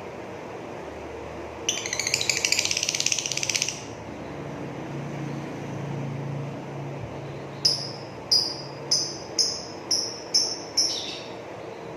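Lovebird calling: a rapid, buzzy rattling chatter (the trill called ngrekek) for about two seconds, then after a pause a run of seven sharp chirps, each falling in pitch, about one and a half a second.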